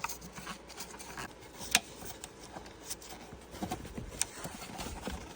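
Plastic clicks and light knocks of snap-in retaining clips being pushed out of a car's dashboard trim piece. A few sharp clicks stand out, the loudest about two seconds and four seconds in, among quieter rustling and handling.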